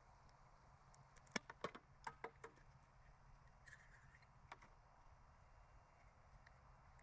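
A few faint, sharp clicks and taps bunched between about one and two and a half seconds in, with one more click a little later: small plastic drip-irrigation tubing and fittings being handled.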